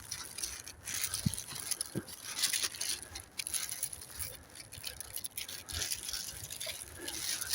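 Footsteps of a person walking through woodland undergrowth and leaf litter, a scratchy step roughly every two-thirds of a second at a steady walking pace, with a few soft thuds underfoot.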